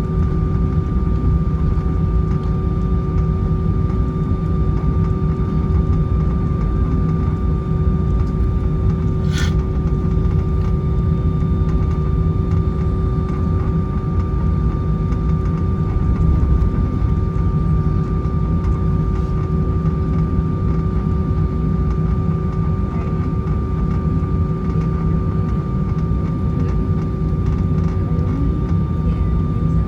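Steady cabin noise inside an Airbus A320-214 on the ground after landing: a low rumble with a steady hum and a higher steady whine. There is one brief click about nine seconds in.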